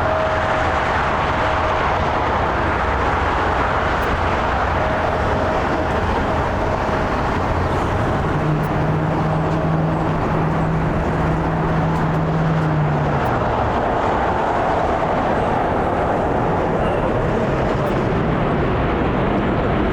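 Jet airliner engines running, a steady, even rush of noise. A low hum joins in from about 8 to 13 seconds in.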